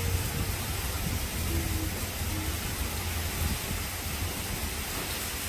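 Heavy rain falling steadily: an even, unbroken hiss with a strong low rumble beneath it.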